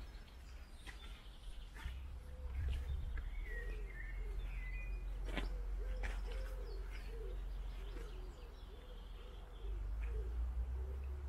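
A pigeon cooing, a low call repeated over and over from a couple of seconds in, with small birds chirping briefly above it and a steady low rumble underneath.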